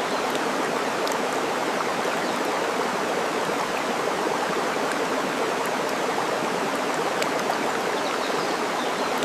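Steady rushing of flowing water, with a couple of faint sharp pops from a crackling wood fire.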